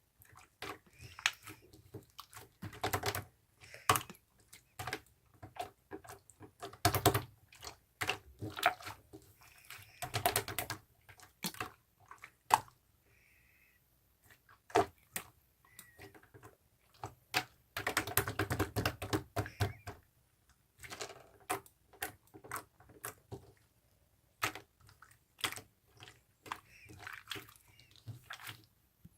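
Homemade slime being squeezed and poked by hand, giving irregular sticky clicks and small pops, with denser runs of crackling now and then.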